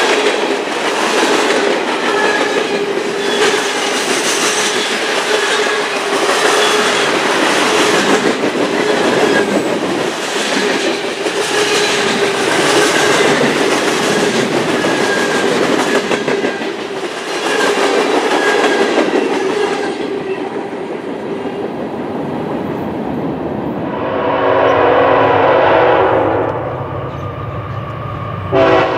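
Freight cars rolling past close by, their wheels clicking over rail joints with a steady metallic ringing tone under the rumble. In the last few seconds a diesel locomotive horn sounds, a held chord, twice.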